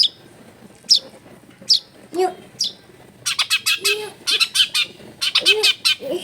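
Long-tailed shrike (cendet) singing: sharp single high calls about once a second, then rapid strings of harsh chattering notes about three seconds in and again near the end.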